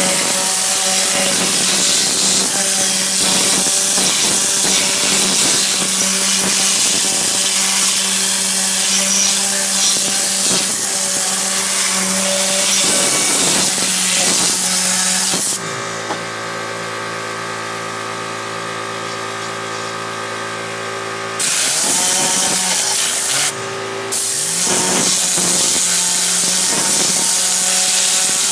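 Compressed-air detailing gun blowing a loud, steady hiss of air over a steady motor hum. The air cuts off for about six seconds a little past halfway, leaving only the hum, then comes back on with another short break.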